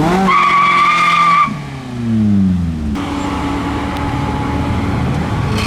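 A car's tyres squeal for about a second and a half at the start, a steady high-pitched tone. Then the engine note falls and settles into a steady low running sound as the car moves slowly.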